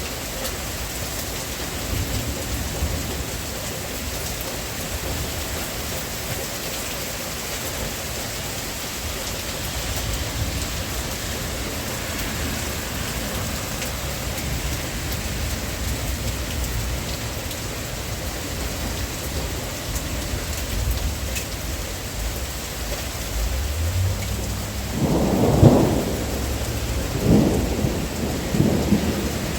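Steady heavy rain hissing, with low rumbles that grow stronger a few times near the end.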